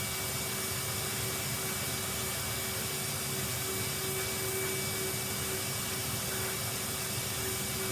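Vacuum cleaner running steadily on a carpet: an even rush of air with a constant hum and a thin high whine.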